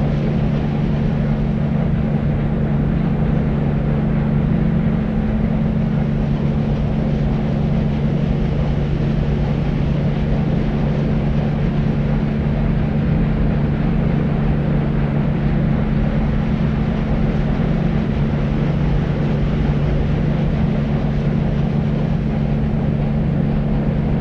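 Deep white noise for sleep: a steady, unchanging low rumbling hiss, darker than white noise, with a steady low hum in it and little treble.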